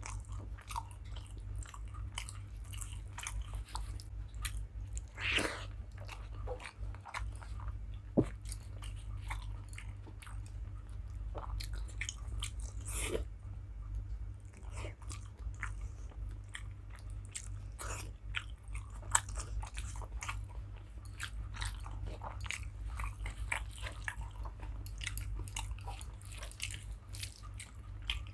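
Close-up chewing and biting of rice with curry and fried vegetables, a steady run of small wet mouth clicks and crunches. Two sharp, louder clicks stand out, about 8 seconds in and again about 19 seconds in. A steady low hum runs underneath.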